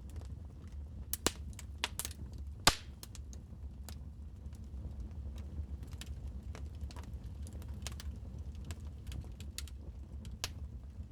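Wood fire crackling in a fireplace: irregular sharp pops and clicks, the loudest few in the first three seconds, over a steady low rumble.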